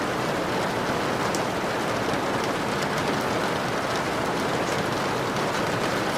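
Steady rain falling, a dense even hiss with faint high drop ticks.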